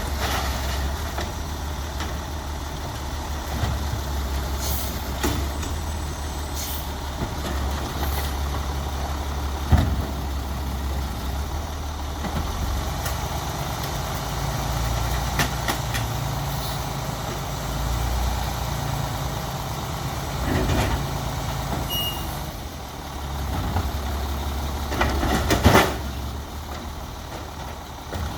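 Peterbilt 320 side-loader garbage truck's diesel engine running steadily, with occasional sharp bangs and short hisses; the loudest bangs come twice near the end.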